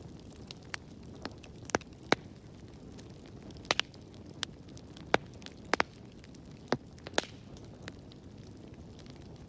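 Fireplace fire crackling: irregular sharp pops and snaps, some in quick pairs, over a low steady rumble of burning.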